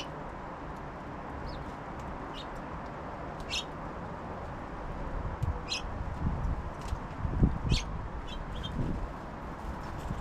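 Small songbirds at a feeder giving short, high chirps, about ten of them spaced through the clip. Several low thumps come in the second half.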